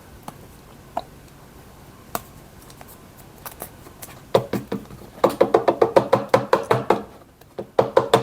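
Light tapping on a hard surface: a few scattered clicks, then from about four seconds in a fast, even run of taps, about six a second, with another short burst near the end.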